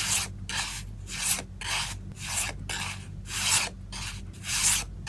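Hands rubbing photocard packaging back and forth: rhythmic rasping strokes, about two a second.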